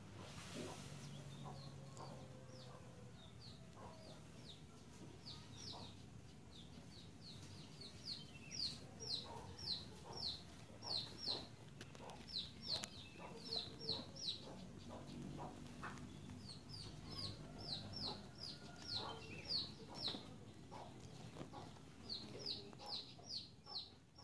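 Bird calls: runs of short, high, falling chirps, about two or three a second, starting about five seconds in and coming and going to the end.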